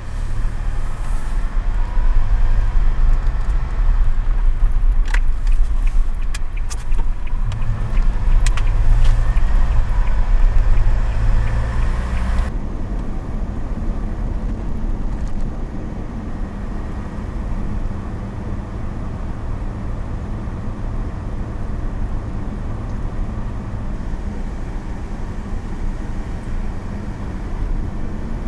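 Car driving on the road, a steady low rumble of engine and tyres. A few sharp clicks come about five to nine seconds in. The sound changes abruptly about twelve seconds in.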